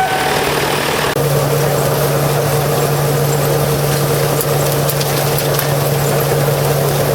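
An engine running at a steady idle, a constant low hum that drops out for an instant about a second in and then carries on unchanged.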